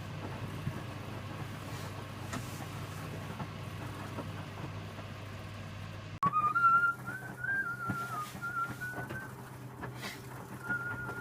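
Steady low hum of an Electrolux W455H commercial washing machine running its heated main wash. About six seconds in, the sound breaks off abruptly and a person whistles a wandering tune over a steady hum.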